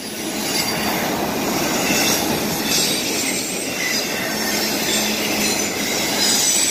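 Freight train's autorack cars rolling past close by: a steady noise of steel wheels running on the rails.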